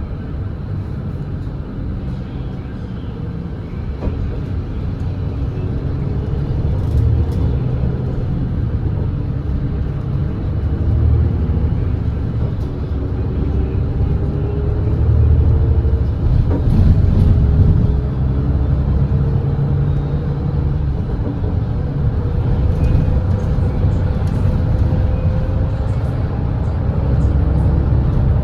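Volvo B8RLE double-decker bus's diesel engine running under load at highway speed, its drone slowly rising in pitch and getting louder as the bus accelerates.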